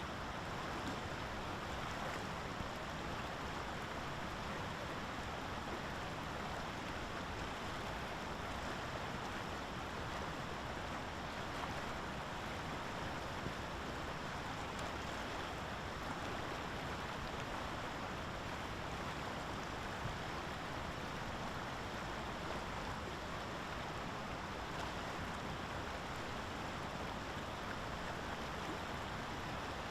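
Steady, even rushing outdoor noise with no calls or distinct events.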